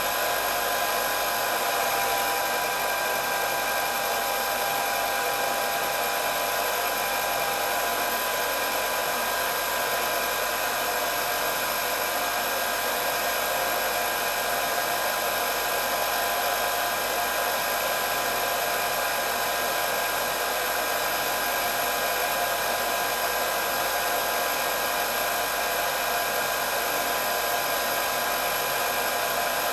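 Electric hair dryer running steadily: an even rush of blowing air with a steady whine from the motor and fan.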